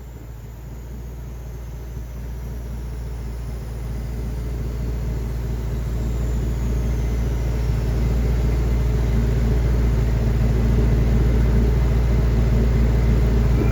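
A vehicle's low rumble, steady in pitch, growing steadily louder throughout.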